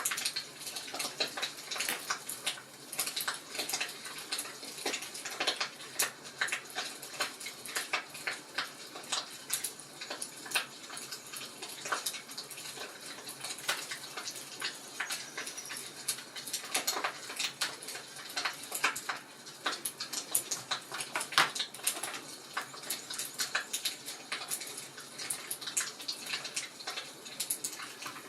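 Wood fire in a fireplace crackling, with dense, irregular pops and snaps over a faint hiss.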